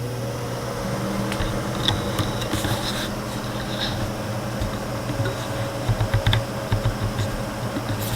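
A 60 CFM electric fan running with a steady motor hum, with irregular clicks and light tapping over it.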